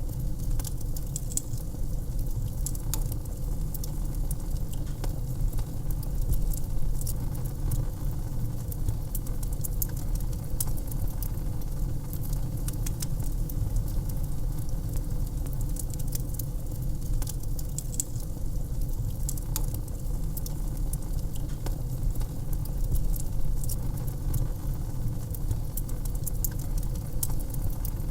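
Wood fire crackling in a fireplace: irregular sharp pops and snaps scattered throughout, over a steady low rumble.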